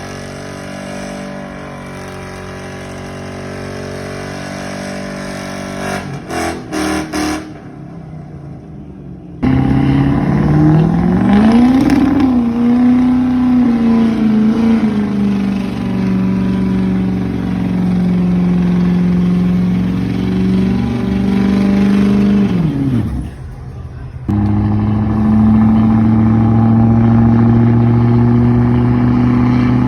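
Truck engines revving hard at a burnout: a quieter idle-like engine tone first, then, after sudden jumps, loud revving that climbs, holds at high revs, drops away, and comes back held steady at high revs.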